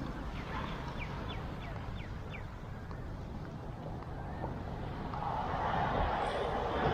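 Road traffic: a steady low rumble of passing vehicles, with one growing louder in the last couple of seconds. A quick run of about six short, high, falling chirps comes about a second in.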